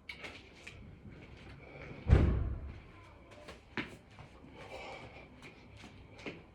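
A single heavy thud about two seconds in, among light taps and shuffling sounds.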